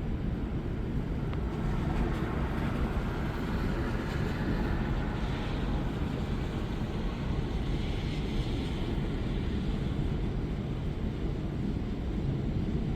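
Thunderstorm ambience: a steady low rumble with a hiss over it that swells twice, with no sharp thunderclap.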